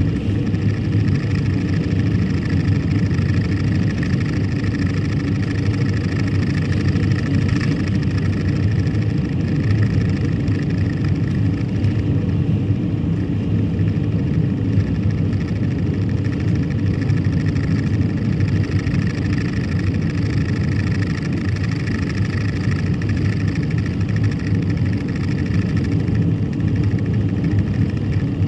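Steady road and engine noise of a car being driven at a constant pace, with no change in speed.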